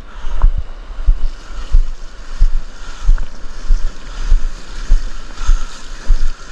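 Wind buffeting the microphone over the sound of surf on a beach, with low thumps repeating about every two-thirds of a second.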